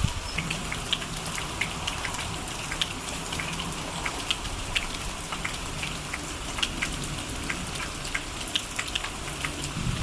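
Steady rain, with individual drops pattering irregularly onto surfaces.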